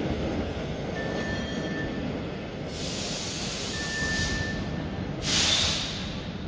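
Rhaetian Railway narrow-gauge train pulling out of a covered station: a steady low rumble with short high-pitched squeals from the wheels, and two sharp bursts of hissing air, the second louder, about halfway through and near the end.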